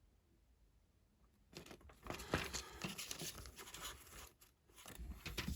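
Rustling and crinkling handling noise with small clicks, starting about a second and a half in and going on irregularly.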